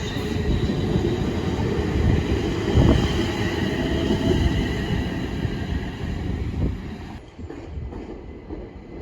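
A train running through the station on the rails: loud rumbling with a faint high whine at first. It dies away about seven seconds in.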